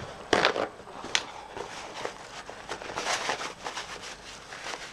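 Small knocks and taps as craft items are handled on a tabletop, with two sharper knocks in the first second and a run of softer rustling taps about three seconds in.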